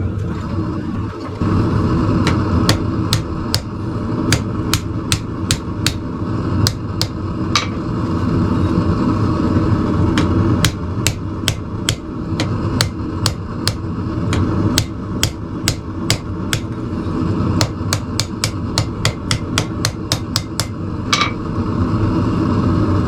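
Hand-hammer blows on hot steel over an anvil, about two a second in runs broken by brief pauses, forming blacksmith tong jaws to grip flat bar stock. A steady low roar runs underneath.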